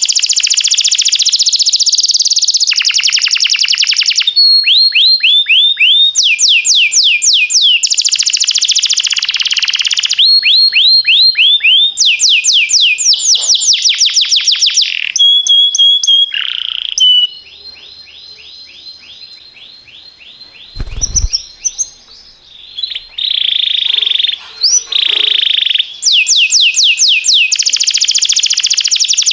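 Domestic canary singing: loud, fast rolls of rapidly repeated down-slurred notes, changing from one roll to the next. About two-thirds of the way through the song drops to a softer run of notes, with a short low thump in it.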